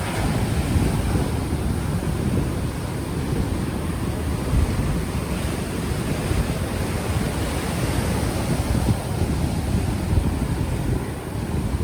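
Ocean waves washing ashore, mixed with heavy wind buffeting on an unshielded microphone that makes a steady low rumble.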